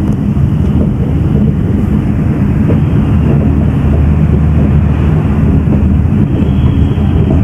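Pakistan Express passenger train running along the track: a loud, steady low rumble, with wind on the microphone.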